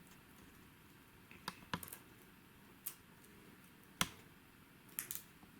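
Small plywood pieces being pressed out of a laser-cut wooden model sheet: a handful of scattered sharp clicks and snaps, the loudest about four seconds in.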